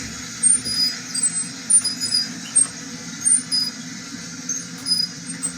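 Treadmill running with a steady low motor hum and footsteps landing on the belt about twice a second, with short high squeaks scattered through.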